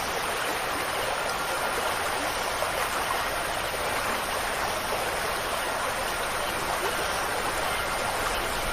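Steady rushing water of a stream, flowing evenly without pause.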